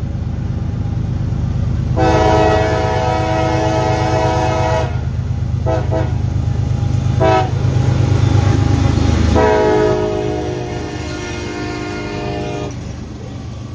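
Diesel freight locomotive approaching with its multi-tone air horn sounding a crossing signal: a long blast, two quick taps, a short blast, then a final long blast. Beneath it runs the locomotive's heavy engine rumble, which drops away abruptly about nine and a half seconds in as the locomotive passes.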